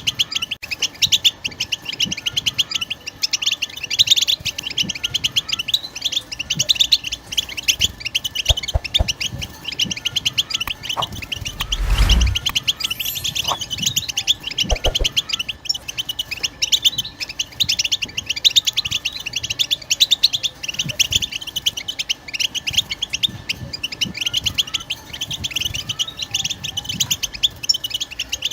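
European goldfinch singing its fast, continuous twittering song, a rapid run of high chirps, the kind of song played to stir caged goldfinches into singing. A dull thump comes about halfway through.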